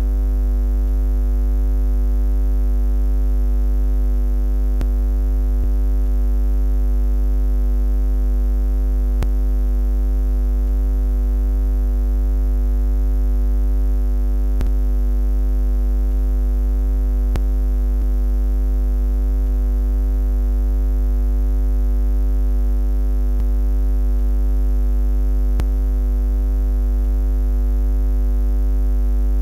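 Steady low buzzing hum, a continuous drone with a deep bass and a few steady higher overtones that does not change, with a few faint clicks here and there.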